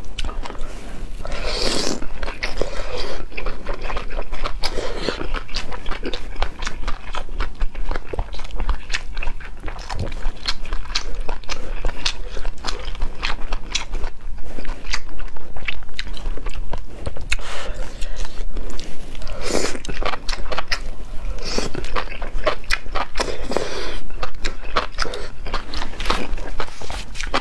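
Close-miked chewing of saucy enoki mushrooms and sliced fatty beef: rapid wet mouth clicks throughout, with a few longer, noisier stretches about two seconds in and again around twenty seconds in.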